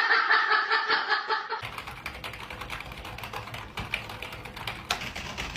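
A person laughing in quick pulses, which breaks off about a second and a half in; then a run of irregular light clicks and taps.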